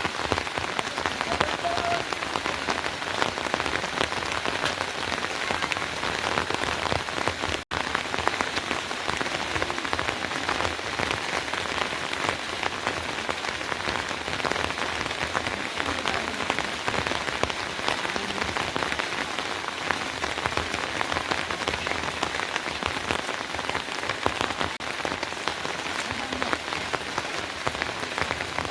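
Steady rain falling on a surface, a dense patter of many small drops. It drops out for an instant about eight seconds in.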